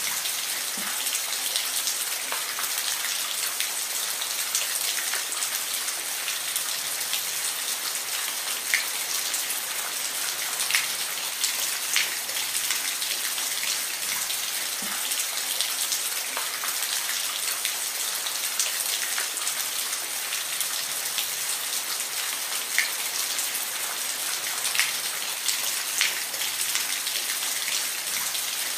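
Steady rain falling as an even hiss, with occasional louder single drops landing close by.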